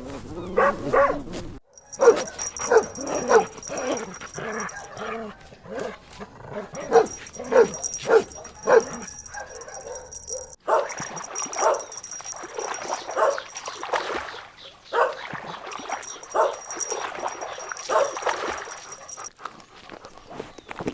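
Puppies yapping: many short, pitched barks and yips in quick succession, broken off abruptly a few times.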